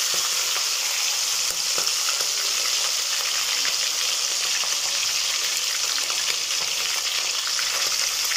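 Chicken pieces frying in hot mustard oil in a kadai, a steady sizzle with scattered small crackles.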